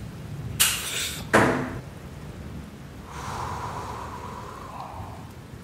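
Horror sound effects over a low rumble: two sudden noisy hits about a second in, the second with a short fading tail, then a hum-like tone for about two seconds.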